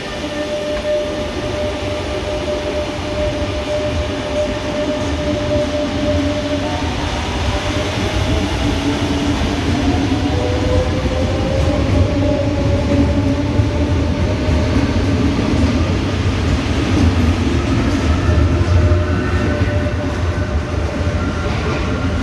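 Rodalies electric commuter train pulling out of an underground station. A low rumble of wheels on the rails runs under a whine from the traction motors, which rises in pitch as the train gathers speed.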